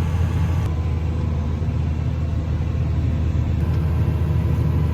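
Tractor engine pulling a strip-till toolbar and fertilizer cart through the field, heard from inside the cab: a steady, low, even drone.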